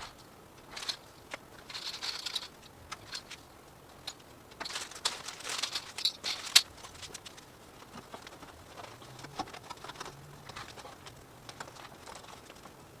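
Irregular rustling and crinkling with light taps and scrapes, as garage door insulation panels are handled and fitted. The busiest stretch comes about five to six and a half seconds in and ends in one sharp tap; after that only scattered small ticks remain.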